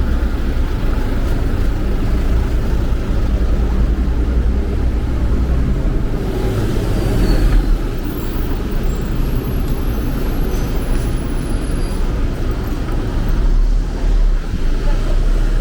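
City street traffic: a steady rumble of cars and other road vehicles passing close by.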